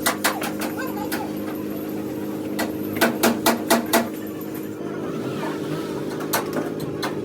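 Sharp knocks over a steady low hum: a few single knocks, then a quick run of five about three seconds in.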